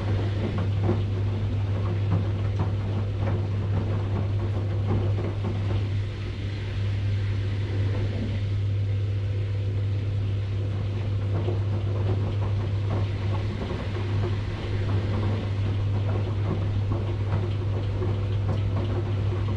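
Washing machine running with a steady low hum and many small irregular clicks and knocks.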